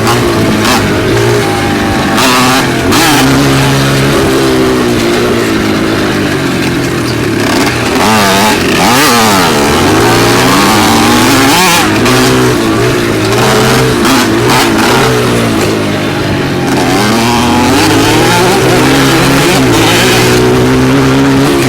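Dirt bike engine running on a trail ride, its pitch rising and falling as the throttle is worked, with the biggest swings about halfway through.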